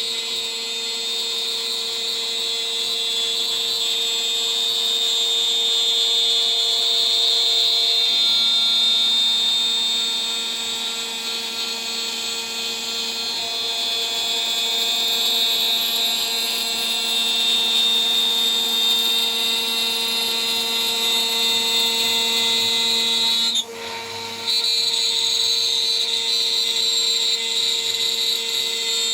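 DIY CNC router spindle running at about 14,000 RPM while a 3 mm three-flute end mill cuts, making a steady, high-pitched whine. About two-thirds of the way through it briefly drops off, then comes straight back.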